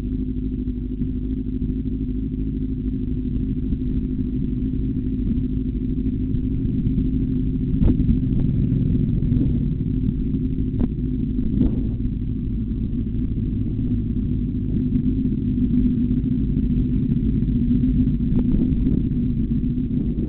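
Motorcycle engine running steadily at a fairly constant pitch, with a few short knocks about eight and twelve seconds in.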